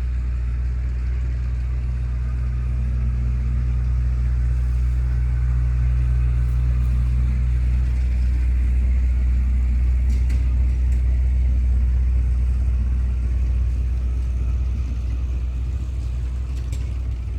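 Farm tractor engine running steadily while spreading manure, a low drone that swells slightly and eases toward the end.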